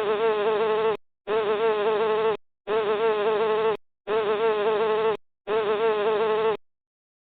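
Bee buzzing: a steady, slightly wavering hum repeated five times, each about a second long with brief breaks between.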